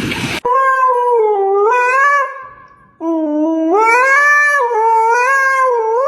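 Dog howling: two long, wavering howls, the first about two seconds long, the second about four seconds long, that rises and then settles.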